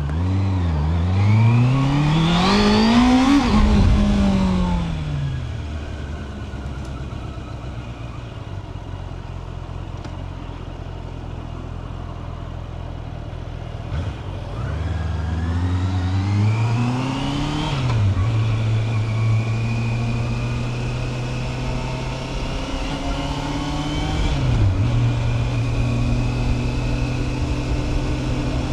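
Honda CB650R's inline-four engine revving up under acceleration, then easing off to a lower, steady note. About halfway through it pulls up again, with brief dips in pitch at the gear changes, then holds a steady speed.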